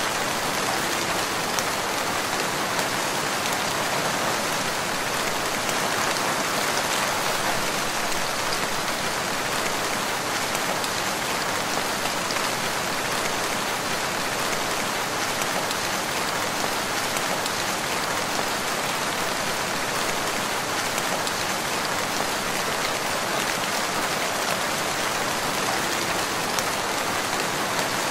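Steady rain falling in a forest, an even hiss of many drops with no breaks.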